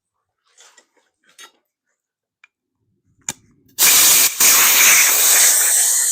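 Faint handling taps and a click, then about two-thirds of the way in a loud, steady hiss of an electric welding arc starts up, with one short break in the arc soon after it strikes.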